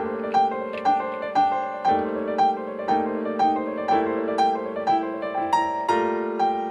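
Instrumental piano music: a melody of evenly spaced notes, about two a second, over held chords.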